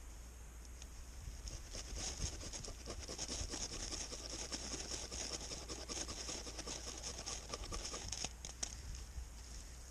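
A ferro rod being scraped over and over with a striker to throw sparks into tinder: a quick run of rough rasping strokes that starts about a second and a half in and dies away near the end.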